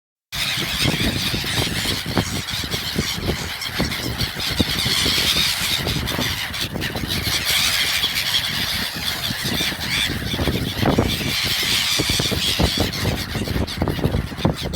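A flock of birds calling over one another in a dense, continuous chorus.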